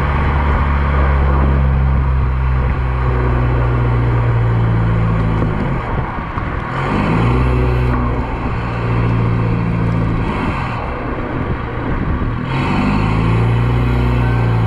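Straight-piped exhaust of an Audi A4 B7 2.0 TDI BPW four-cylinder diesel, a loud, deep engine note whose pitch drops and climbs back up twice, about six and twelve seconds in.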